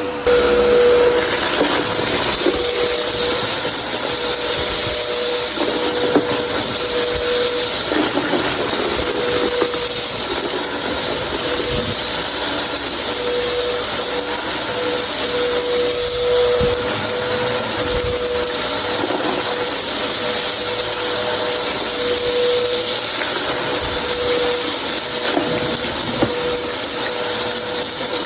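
Vacuum cleaner running steadily, a motor whine wavering throughout, with scattered clicks and rattles as crunchy debris is sucked up.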